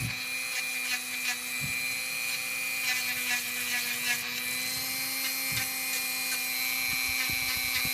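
Dremel rotary craft tool running at a steady high speed, a constant motor whine with a hiss of grinding as it files a dog's toenail down. A few light knocks come through here and there.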